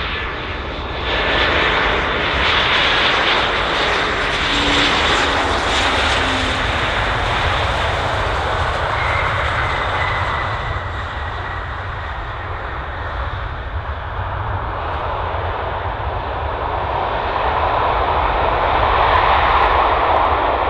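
Jet airliner passing close on its landing, the engine noise loudest a few seconds in, easing off, then building again near the end.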